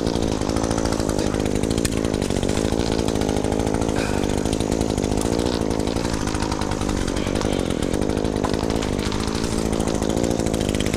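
Chainsaw engine running steadily, its note wavering slightly up and down.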